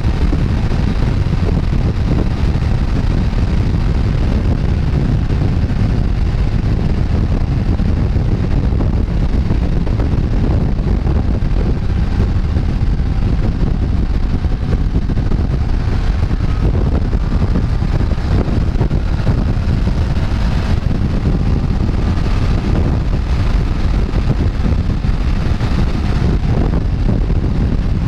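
Heavy wind rush on the microphone of a motorcycle riding at speed, with the bike's engine and road noise underneath, steady throughout.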